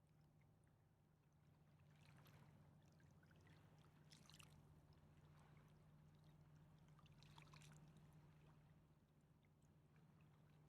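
Near silence: faint river water lapping, swelling softly about every three seconds, over a low steady hum.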